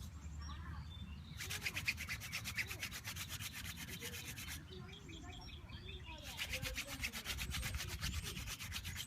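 Hand drill fire-making: a wooden spindle spun between the palms and rubbing in a cottonwood fungus hearth, giving a fast rhythmic scraping. It comes in two bouts with a pause of about two seconds between them.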